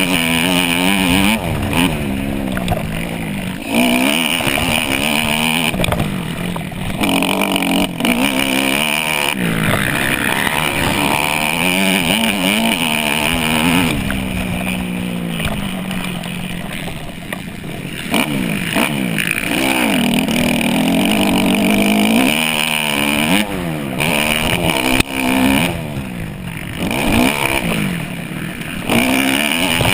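Dirt bike engine revving hard, the pitch climbing and dropping back again and again as it shifts and rides on and off the throttle at racing pace.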